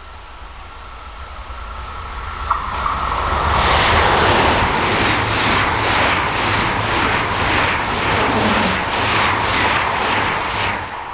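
A train passing at speed on an electrified mainline: a faint high ring, then a rush that swells in, stays loud for about seven seconds with a regular pulse about twice a second as the cars go by, and drops off sharply near the end as the last car passes.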